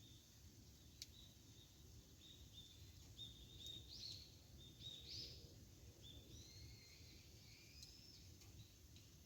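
Faint bird calls: a series of short, high chirping notes, thickest in the middle, over a low steady rumble, with a couple of sharp snaps from the campfire.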